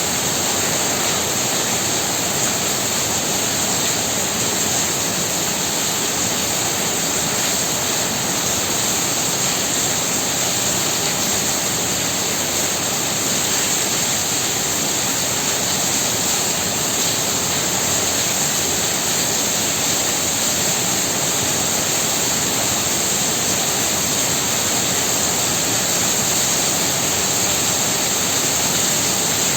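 Heavy rain pouring down in a dense, steady hiss with no break or let-up.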